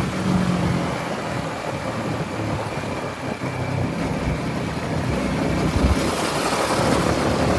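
Yamaha MT-15's single-cylinder engine running steadily at low revs.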